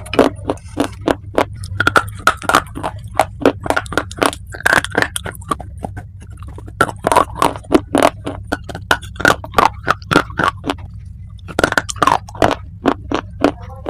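Close-miked chewing of hard dry clay: rapid, crisp crunches and cracks, several a second, with a short pause a little over two-thirds of the way through.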